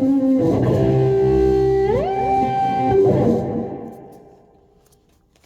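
Guitar playing sustained notes to end the piece, with a note sliding up in pitch about two seconds in, then ringing out and fading away.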